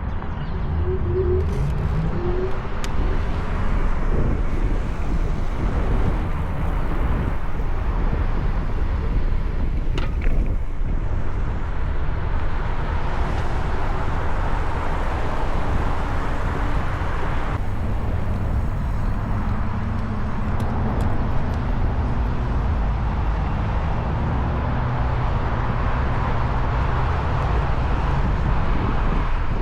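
Steady wind rush and rolling noise from an electric trike being ridden, picked up by the camera's onboard microphones, heaviest in the low end.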